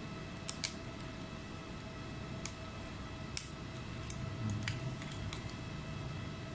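Scattered light clicks and taps of small tools and parts being handled during a laptop teardown, over a faint steady hum.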